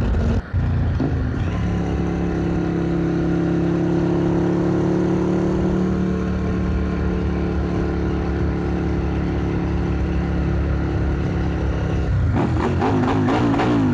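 Motorcycle engine running at a steady speed under road and wind noise, its note held level. Near the end the engine note wavers quickly up and down.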